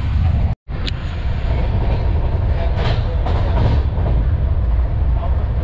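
Passenger train coach running along the track, a steady low rumble heard from inside the coach. It cuts out to silence for a moment about half a second in.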